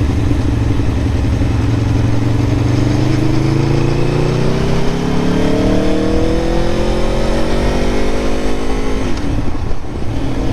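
Aprilia Tuono motorcycle engine under load, its pitch climbing steadily for several seconds as the bike accelerates, then falling sharply near the end at a clutch upshift.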